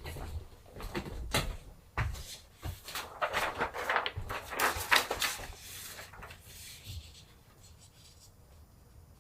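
Hands at work on silkscreen plate making: several sharp knocks and clicks of a screen frame and tools being handled, then a few seconds of scratchy rubbing and rustling that fade away about seven seconds in.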